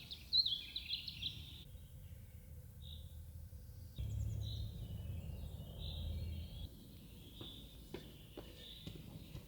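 Small birds chirping and calling, busiest in the first second or so, then scattered calls. A low rumble rises about four seconds in and drops away before seven seconds, and a few faint clicks follow near the end.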